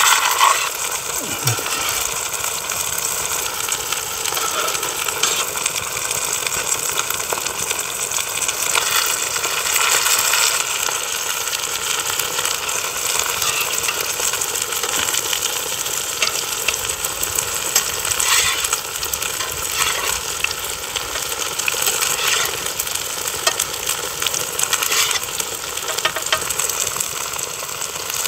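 Breaded semi-dried sea bass cutlets frying in oil in a pan over a wood fire. The oil gives a steady sizzle with fine crackles.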